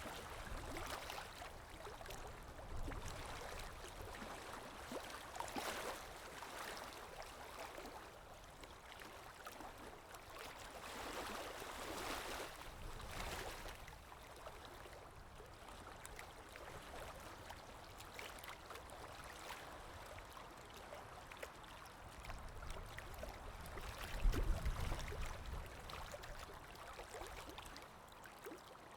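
Calm sea waves lapping and washing in gentle, irregular swells every few seconds. A brief low rumble about three-quarters of the way through is the loudest moment.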